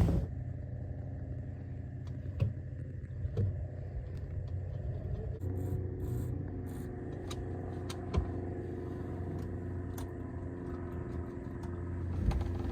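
A motor running steadily with a low hum, broken by a few light clicks and knocks.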